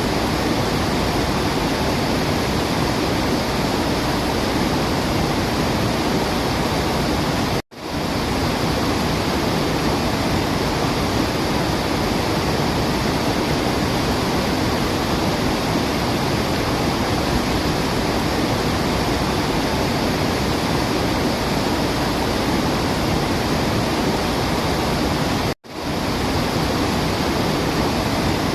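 Steady rushing water, like a waterfall, an even hiss with no birdsong in it. It cuts out for an instant twice, about eighteen seconds apart, and comes straight back.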